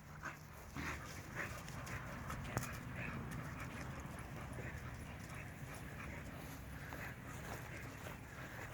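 Faint sounds of young bully-breed dogs: a few soft whimpers and scattered light knocks as they move about.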